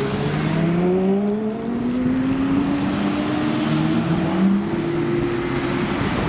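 Supercar engine pulling away under steady acceleration, its note rising slowly and evenly in pitch.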